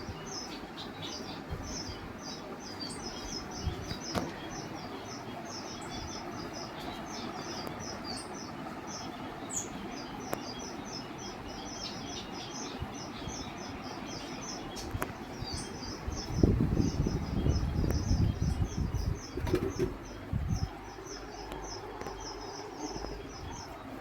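A flock of small caged birds chirping continuously, several short high chirps a second. Between about two-thirds and four-fifths of the way in, louder low thumps and rumbles come in over them.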